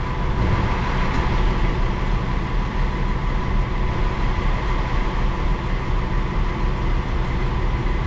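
Diesel engine of heavy equipment running steadily at an even speed, with a faint steady high tone above it.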